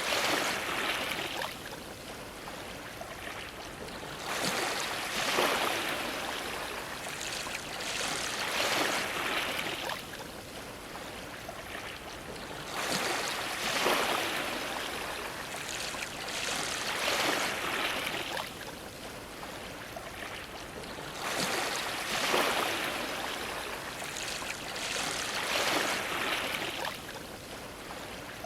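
Ocean waves crashing against a dock: a steady wash of water that swells into a surge every few seconds.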